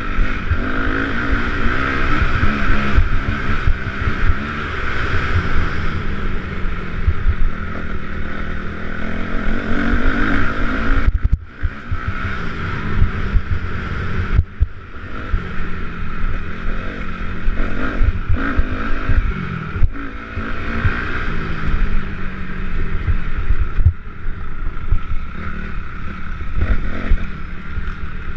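Motocross bike engines revving up and down as the bikes race around the track, the pitch rising and falling again and again, with a few brief dips.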